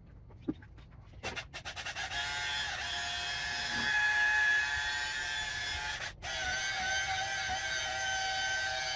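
A small electric power tool starting with a few quick stuttering pulses, then running steadily with a high whine. It cuts out for a moment about six seconds in and picks straight up again.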